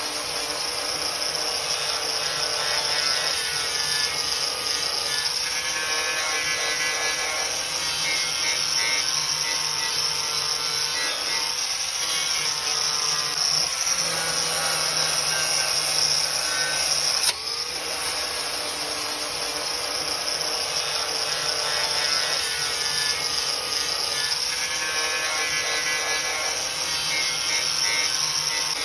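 A handheld power tool running steadily against the steel of a car body panel, with an abrupt change in the sound about 17 seconds in.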